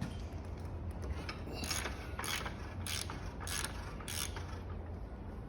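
Socket ratchet wrench clicking in five short strokes about half a second apart, turning out a motorcycle front fork's spring-loaded top cap.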